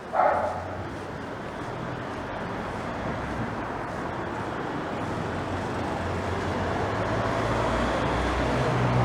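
A dog barks once at the start. Then a car approaches along the street, its engine rumble and tyre noise growing steadily louder toward the end.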